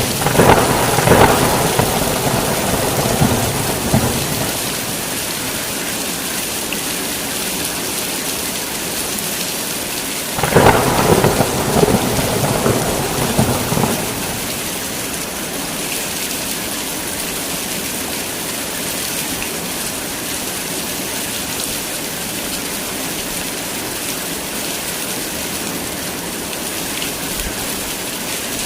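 Heavy rain falling steadily through a thunderstorm, with thunder rumbling twice: at the start and about ten seconds in, each roll lasting a few seconds.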